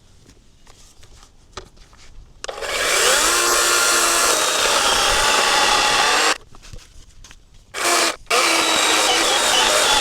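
DeWalt battery chainsaw's electric motor spinning up about two and a half seconds in and cutting into hardwood eucalyptus logs. It stops for about a second and a half, gives a short burst, then runs again.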